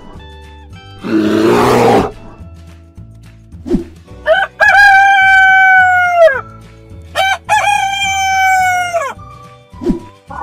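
A bear's roar about a second in, then a rooster crowing twice, two long cock-a-doodle-doo calls, over soft background music.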